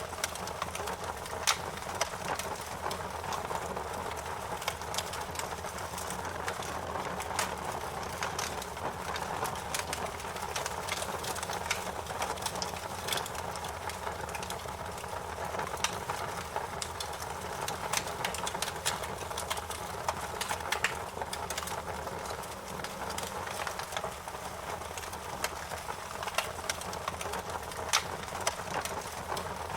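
Wood fire burning with a steady low rush of flames and frequent sharp, irregular crackles and pops.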